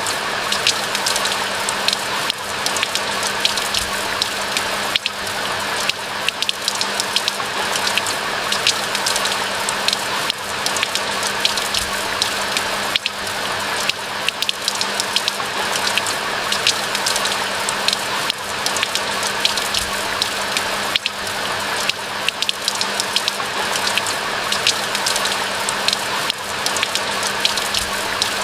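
Steady rain falling in a pine forest: a dense, even hiss with many separate drops ticking sharply close by.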